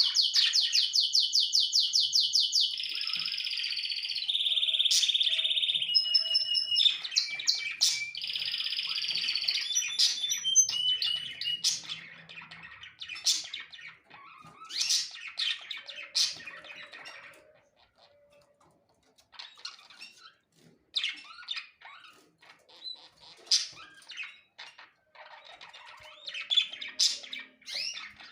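Small birds chirping and calling: a fast run of repeated high notes at the start, then a dense mix of chirps and calls that thins to scattered chirps after about twelve seconds.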